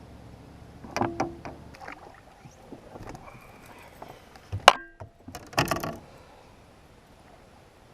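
Handling noise on a fishing kayak: a few knocks and clatters of gear against the hull, with one sharp loud click near the middle.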